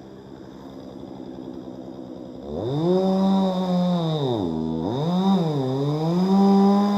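Chainsaw revved: quiet at idle at first, then throttled up to a high steady pitch about two and a half seconds in. It drops back toward idle twice before revving high again near the end.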